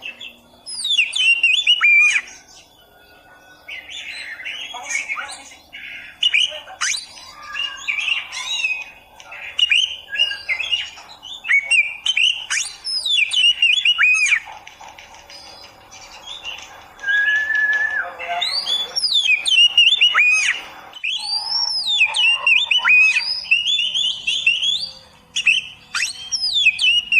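Oriental magpie-robin (kacer) singing a long, varied song of quick sweeping whistles and chirps, delivered in phrases with short pauses between them.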